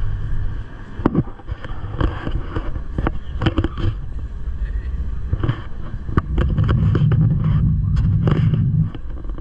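Gornergrat rack railway train running, a low rumble broken by many irregular sharp clicks and knocks from the wheels and track. The rumble grows louder about six seconds in and drops back near the end.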